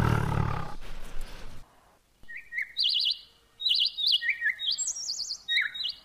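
A tiger's roar trails off in the first second and a half. After a brief gap, a songbird sings a repeated phrase, each time a short lower note followed by a fast, high trill.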